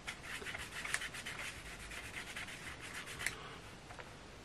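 Faint scratchy rubbing of a small round brush working leather dye into a piece of leather in quick strokes, fading out about three seconds in.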